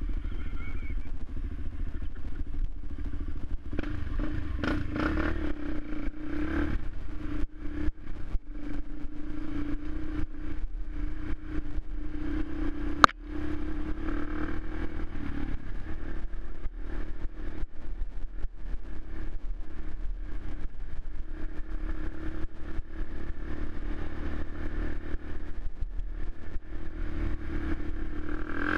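Suzuki LTZ 400 quad's single-cylinder four-stroke engine running steadily, with rattling clicks throughout and one sharp crack about halfway through.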